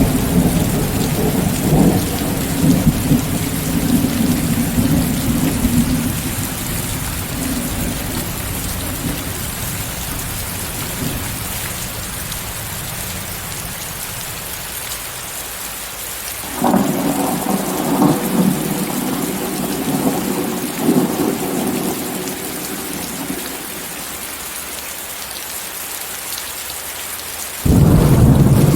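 Steady rain with a hiss of added white noise, under rolling thunder: a rumble fading away over the first dozen seconds, a new one breaking in abruptly about 17 seconds in and dying down, and another starting suddenly just before the end.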